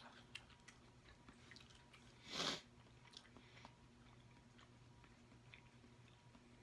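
Quiet close-miked mouth sounds of chewing, with faint wet clicks and smacks. A short breathy exhale comes about two seconds in.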